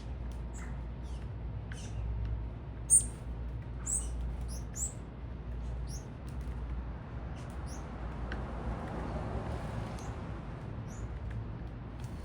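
Small birds giving short, high chirps at a feeder, scattered and irregular, the loudest few about three to five seconds in. Under them is a steady low city rumble, with a swell of noise around eight to ten seconds in.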